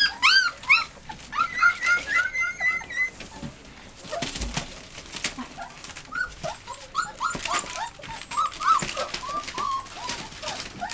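American Bulldog × Siberian Husky cross puppies whimpering and yipping: quick runs of short, high cries, several a second. The cries thin out in the middle and pick up again over the last few seconds.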